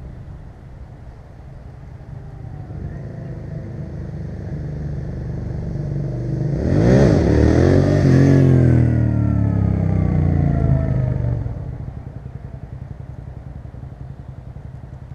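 Suzuki SV650S V-twin with a Delkevic 350 mm stainless steel exhaust, ridden past. It grows louder as it approaches and its pitch climbs as it accelerates about seven seconds in. It is loudest for a few seconds, then drops in pitch and fades as it moves away.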